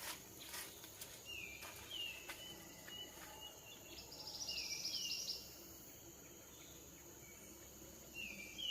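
Short high bird chirps, each sliding downward, often in pairs, repeating every second or two. A dry insect trill joins for about a second near the middle.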